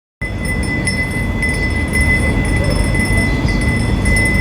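Wind chime ringing, a steady high tone with the rods struck again and again, over a loud low rumble. The sound starts abruptly just after the beginning.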